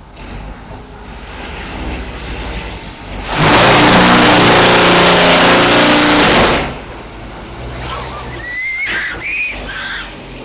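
A motor vehicle's engine running and passing close, very loud for about three seconds in the middle before dropping away.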